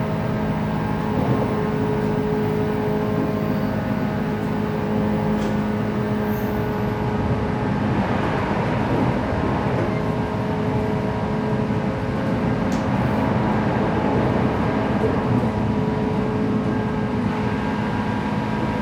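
JR West 117 series electric train running at speed, heard from inside the car: a steady rumble of wheels on rail with a constant motor hum. About eight seconds in, a brief sweep of rising and falling tones passes.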